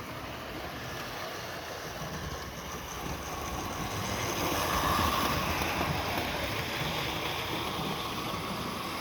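Hornby 00 gauge model locomotive running on the track, its electric motor whirring and wheels rattling on the rails. It grows louder around the middle, then eases off.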